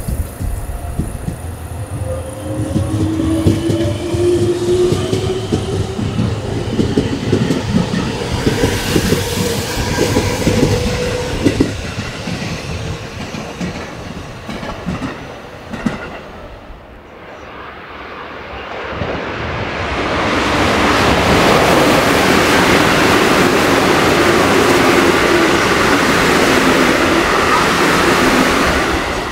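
Electric multiple-unit train accelerating, its traction motor whine rising in pitch over several seconds with wheels clattering over rail joints, then fading. About twenty seconds in, another train passes at speed: a loud, steady rush of wheel and rail noise.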